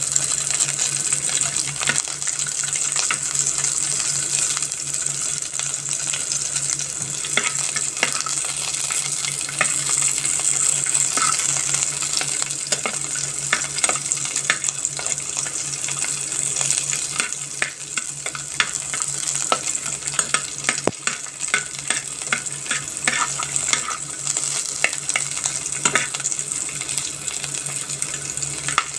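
Green bell pepper strips sizzling in hot oil in a pan, with a steady high hiss, while a metal spoon stirs them, clicking and scraping against the pan.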